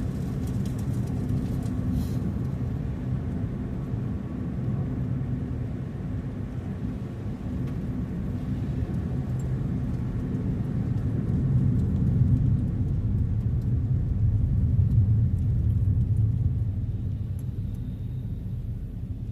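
A car driving, heard as a steady low rumble of engine and road noise that swells for a few seconds past the middle and then eases off.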